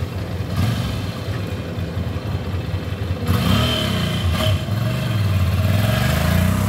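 Ducati Hypermotard's twin-cylinder engine pulling away from a standstill. The revs rise and fall a couple of times as it moves off, then climb again near the end.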